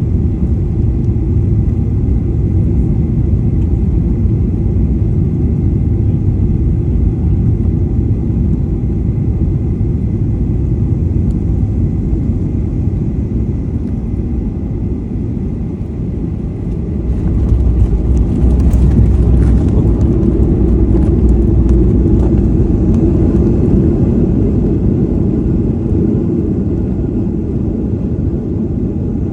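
Boeing 737 cabin noise from beside the wing: engine and airflow rumble runs steadily, then about seventeen seconds in it turns louder and deeper, with a steady hum joining a few seconds later, as the jet touches down and slows on the runway.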